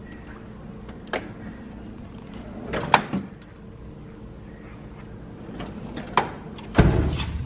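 Metal tool-chest drawers sliding open and shut, with several sharp clacks, the loudest near the end, over a steady low hum.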